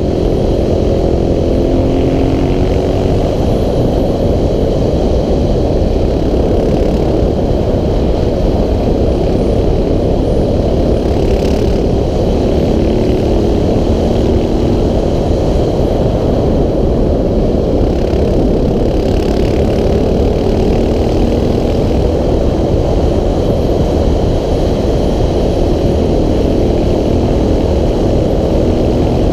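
KTM 690 SMC R supermoto's single-cylinder engine running under way, its pitch repeatedly rising and then dropping as it revs up and shifts through the gears, mixed with a steady rush of noise.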